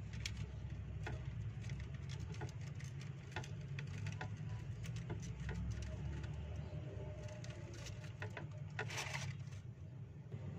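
Soft crinkling and rustling of paper as bread is rolled up in it by hand: many small crackles, with one louder crinkle near the end, over a low steady hum.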